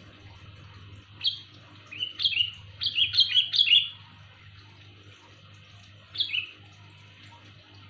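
Sooty-headed bulbul (kutilang) giving loud, clear calls: short, bright, down-slurred notes, with a quick run of four or five a little after two seconds in and a single call near the end. A faint steady low hum runs underneath.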